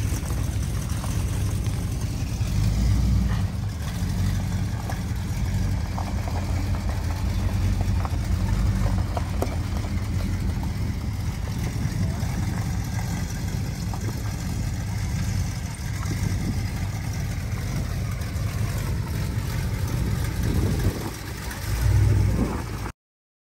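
Car engine running at a steady idle, with a short, louder rise in revs near the end before the sound cuts off abruptly.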